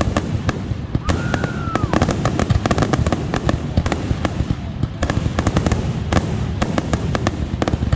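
Fireworks going off in a dense, continuous run of bangs and crackles, with a whistling firework rising and then falling in pitch about a second in.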